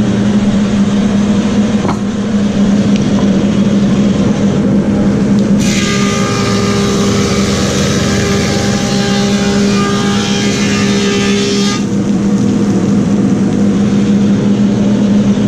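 A Woodmaster planer running with a steady hum. About a third of the way in, a board feeds through and the cutterhead cuts it for about six seconds with a loud hissing whine, then the planer drops back to its idle hum.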